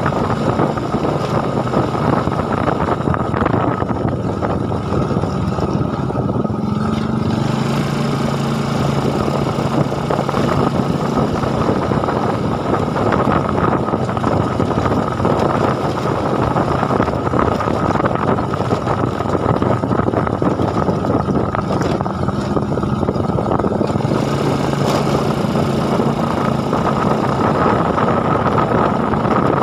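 A vehicle engine running steadily while under way, over a loud rush of wind and road noise. Its note shifts about seven seconds in and again near the end.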